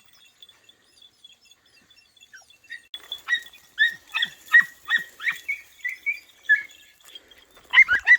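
Podenco hound puppies giving tongue on a rabbit's scent: a run of short, high yelps, about two a second, starting about three seconds in. They break off briefly near the end and then start again.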